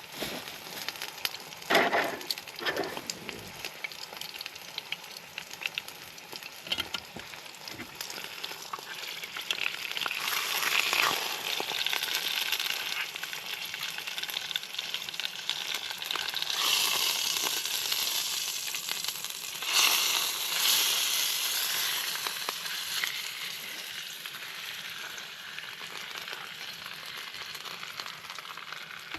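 Steak frying in a pan on a camp stove: a sizzle that builds about ten seconds in and surges louder twice later on, with a few knocks from the pan before it builds.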